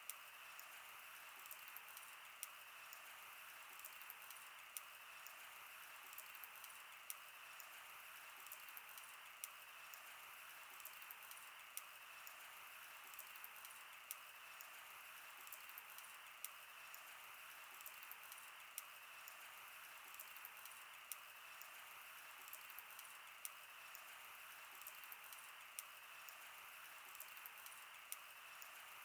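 Wood fire crackling: irregular sharp pops and snaps over a faint, steady hiss.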